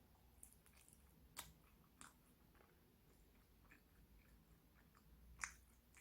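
Faint close-up chewing and small wet mouth clicks from someone eating a chewy macaron. A few sharper clicks come through, the loudest near the end.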